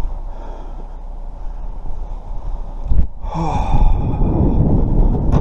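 Wind rumbling on the microphone. About three seconds in, a knock is followed by a heavy breathy sigh.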